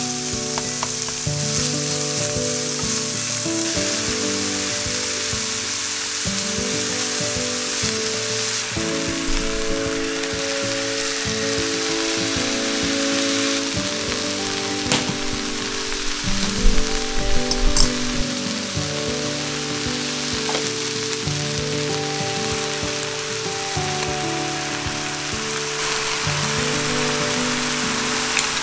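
Minced pork and cabbage sizzling steadily in a frying pan, with a few louder clatters a little past the middle. Light background music plays under the sizzle.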